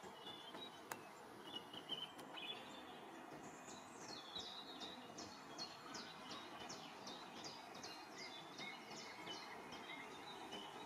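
Faint birdsong over a quiet outdoor hiss: a bird repeats a short, high note that drops in pitch, about two a second, with a few fainter chirps before it.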